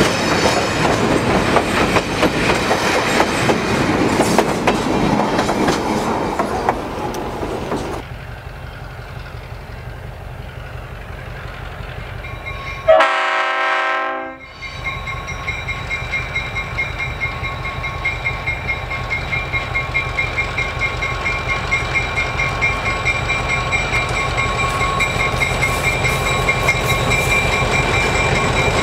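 Passenger cars rolling fast over a steel girder bridge, wheels clattering on the rail joints, until an abrupt change about 8 seconds in to a quieter, more distant train. About halfway through, a short, loud blast of the diesel locomotive's multi-note air horn is cut off sharply. Then the approaching EMD MRS-1 diesel-electric locomotive and its train grow steadily louder, with a fast pulsing beat.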